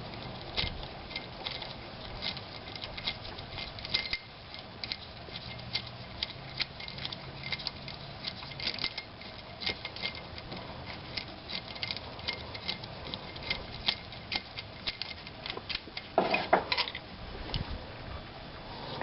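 Hand tools working metal parts of an engine's accessory drive: a run of light, irregular metallic clicks, a few a second, with a louder clunk about sixteen seconds in.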